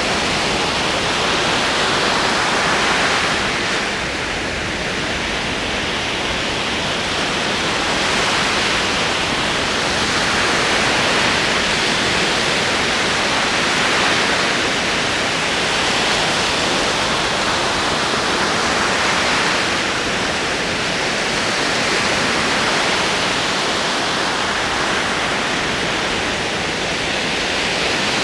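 Ocean waves rolling in a continuous wash of surf that swells and eases gently every few seconds.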